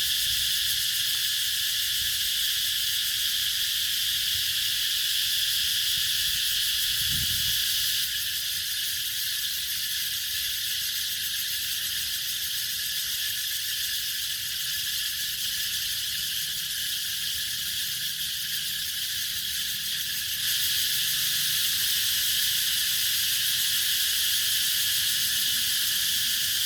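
Cicadas singing in a continuous, high-pitched buzzing chorus. It dips slightly about eight seconds in and swells back up about twenty seconds in.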